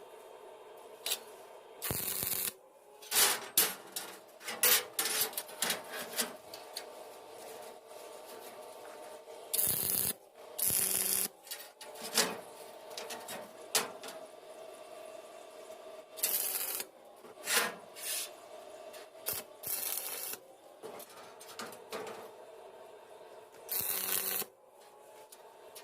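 Hand work in a metal workshop: short scraping strokes and sharp clicks at irregular intervals over a steady hum.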